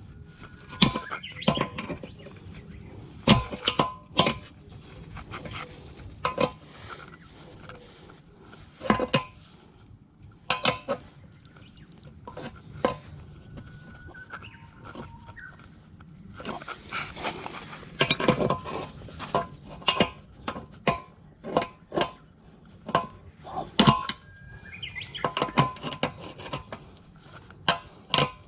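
Irregular metallic clinks and knocks of hand tools and metal parts being handled, many with a short ring.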